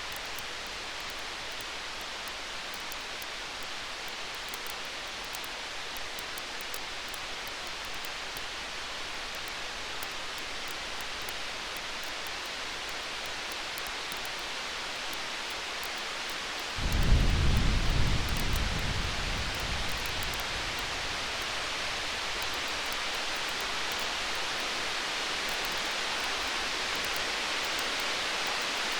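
Distant thunder: one low rumble about two-thirds of the way through that swells suddenly and dies away over about three seconds. Under it runs a steady rain-like hiss with faint high crackles of a campfire.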